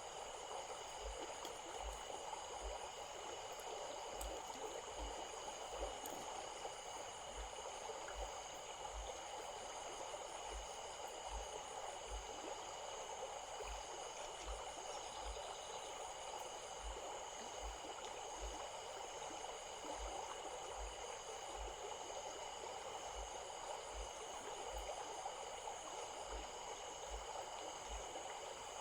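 Small stream flowing and trickling steadily. Over the water run a steady high-pitched whine and a high chirping that comes and goes in short repeating runs.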